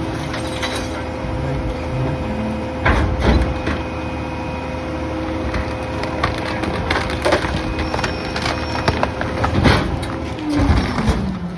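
PakMor rear-loader garbage truck compacting bulky household debris, wood cracking and splintering in the packer over the steady run of the engine and hydraulics. There are several loud cracks, the biggest about three seconds in and again near the end, and a falling hum as the packer cycle winds down.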